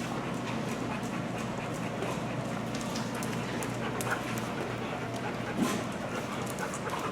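Dogs panting and moving about over a steady background hiss, with a short faint sound about five and a half seconds in.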